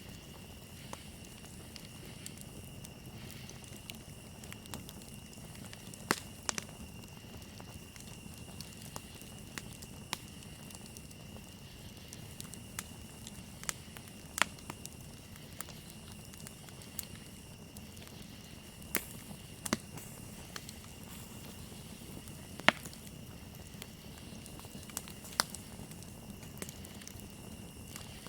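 Wood campfire crackling, with sharp pops coming at irregular intervals, the loudest about two-thirds of the way through, over a steady high trill of crickets.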